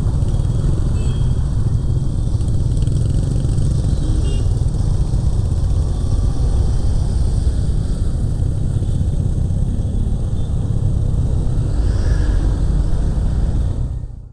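Motorcycle riding at speed: wind buffeting the on-board microphone over engine and road noise, fading out near the end.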